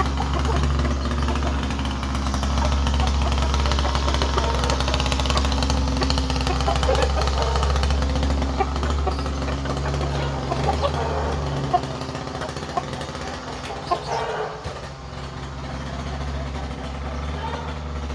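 Chickens clucking over a steady low machine hum, which drops away about eleven seconds in.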